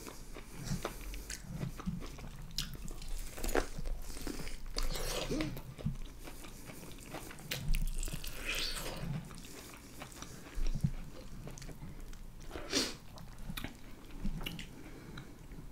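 A person biting kernels off a sauce-covered corn on the cob and chewing close to the microphone, heard as scattered short clicks and mouth sounds.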